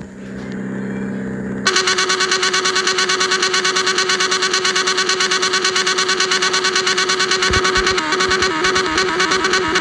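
Yamaha XJ6 inline-four running through an open, muffler-less exhaust: a low steady idle for the first second and a half, then suddenly a loud engine note held at an even, high pitch with a fast pulsing throughout the rest.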